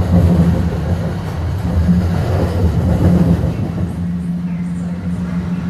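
JFK AirTrain car travelling along its guideway: a steady low hum and rumble from the drive and the running gear.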